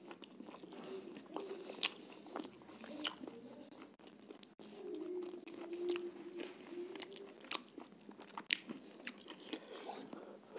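Chewing and biting sounds of a person eating roti and chicken curry, with many sharp, irregular mouth clicks and smacks.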